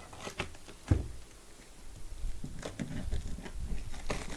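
Hands handling a parcel of books: scattered short knocks and rustles, with one heavier thump about a second in.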